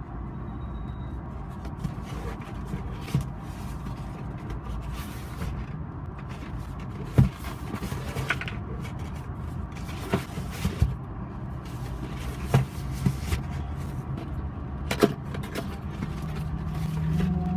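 Vehicle running steadily with a low hum, with a few sharp clicks and knocks scattered through; the hum grows louder and rises near the end.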